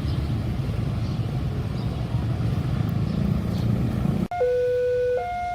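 Low, steady rumbling of a train running past. About four seconds in it cuts off abruptly into a clean two-tone hi-lo siren that switches between two pitches roughly every three-quarters of a second.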